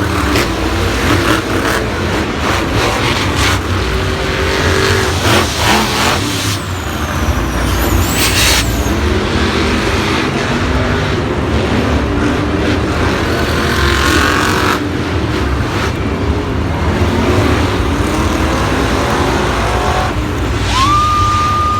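Monster truck engines running loud and heavy, with clattering knocks throughout. A steady, held high tone comes in near the end.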